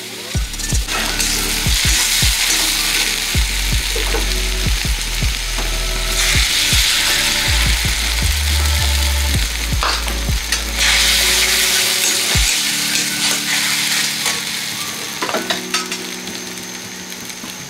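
Onions sizzling in hot oil in a black steel wok, with a metal spatula scraping and tapping against the pan. About halfway through, beaten egg is poured in and fries with a loud sizzle. The scraping stops near the end while the frying goes on.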